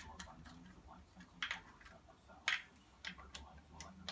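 A few sharp metallic clicks and ticks of hand tools on engine bolts, the two loudest about a second apart, as the oil pump bolts are being tightened.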